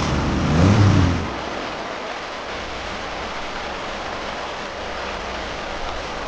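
A car engine revving with rising pitch, cutting off about a second in, followed by a steady hiss.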